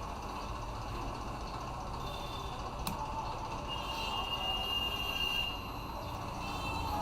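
Multimeter continuity beeper sounding a steady high beep for about a second and a half, with a sharp click just before it as a probe is placed. The beep shows a shorted diode in the amplifier's power supply. A steady low background rumble runs underneath.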